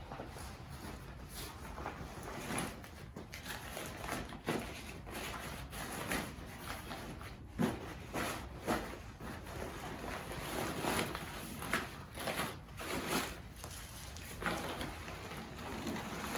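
Sailcloth rustling and crinkling in irregular short bursts as a sail is folded and flipped over.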